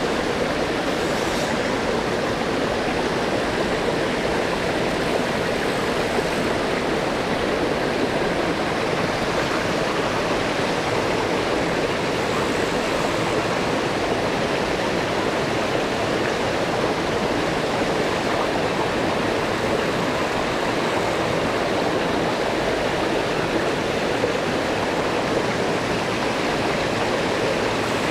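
A small mountain stream flowing steadily over rocks, a continuous even water noise.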